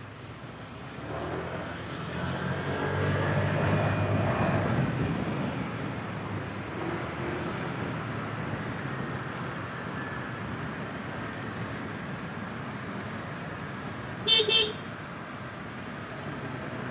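Honda Click 125i scooter's engine and traffic noise while riding in city traffic, swelling over the first few seconds and then running steadily. About fourteen seconds in, a horn gives two short beeps.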